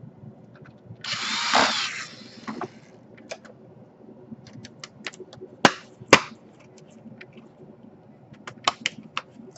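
Electric screwdriver whirring for about a second as it drives a screw into the laptop, then scattered sharp clicks and taps of small parts being handled, the loudest two near the middle.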